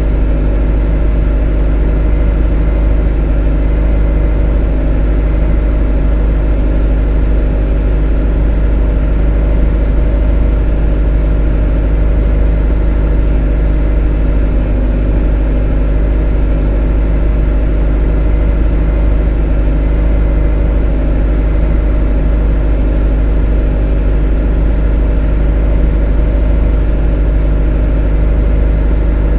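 A motor running steadily and evenly: a deep hum with a stack of steady tones above it that does not change.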